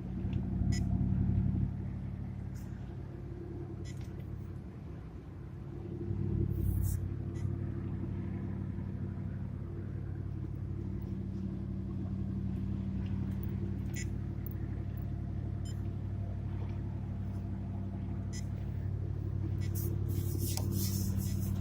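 Pickup truck engine and road noise heard from inside the cab while driving, a steady low hum that swells louder near the start and again about six seconds in.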